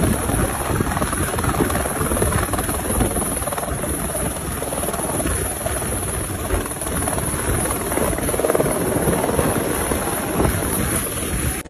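Helicopter rotor and engine noise, loud and steady.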